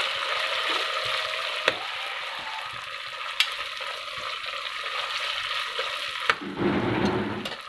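Sliced onions, green chillies and whole spices sizzling in hot oil in an aluminium pressure cooker as they are stirred with a spoon. Two sharp ticks stand out, one under two seconds in and one at about three and a half seconds, and near the end the hiss gives way briefly to a lower, rougher noise.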